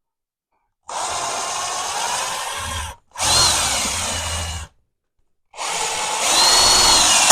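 Power drill running in three bursts of about two seconds each, with short pauses between them; its motor pitch shifts within each run.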